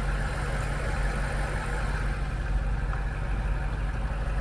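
BMW X6 M Competition's 4.4-litre twin-turbocharged V8 idling steadily, a low even rumble.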